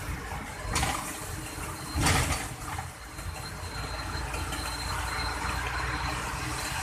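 Heavy rain and road spray on a moving lorry, heard from the cab with the engine running low underneath; two loud swishes, about a second and two seconds in, as sheets of water hit the truck.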